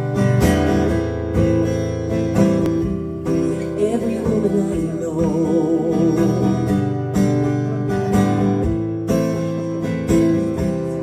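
Acoustic guitar strumming the intro of a song, with a wavering held note with vibrato around the middle.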